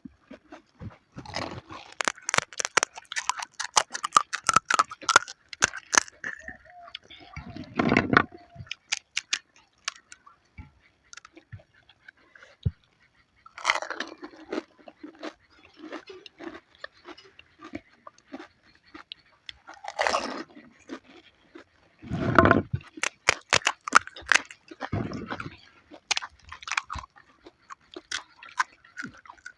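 Close-up eating of panipuri: crisp fried puri shells crunching between the teeth in bouts of many short, sharp crunches, with a few heavier, deeper mouth sounds between the bouts.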